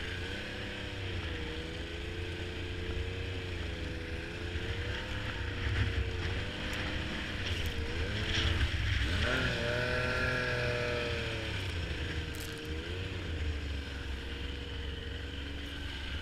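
Snowmobile engine running under way, its pitch wavering and twice dipping briefly before picking back up, as the throttle eases off and opens again.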